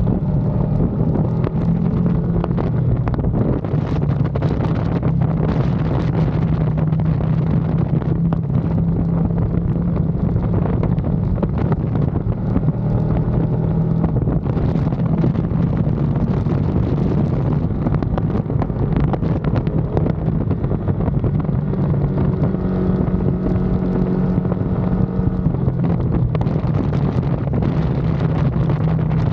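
Ducati Panigale V2's 955 cc L-twin engine running at speed, its pitch rising and falling with throttle and gear changes. Steady wind rush on the microphone sits under it.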